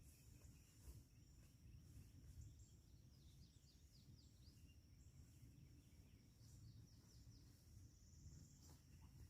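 Near silence outdoors with faint bird chirps: a quick run of short falling chirps about three seconds in and another near seven seconds, over a faint steady high-pitched hum.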